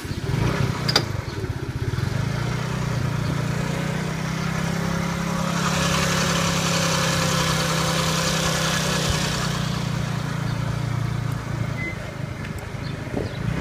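Motorbike engine running with a steady low hum as it pulls away, with a knock about a second in and a rush of wind noise for a few seconds in the middle.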